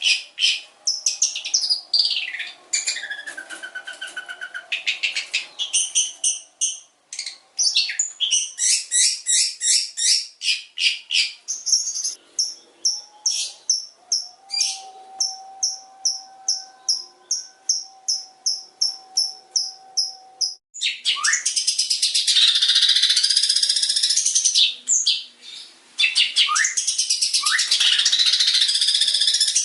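Long-tailed shrike (cendet) singing a varied song laced with other birds' calls: fast runs of repeated high chips, a whistle sliding down near the start, and loud harsh grating chatter in the last third.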